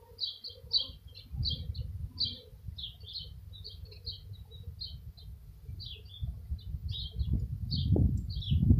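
A bird chirping over and over, short high notes about two or three a second, over a low rumble that grows louder near the end.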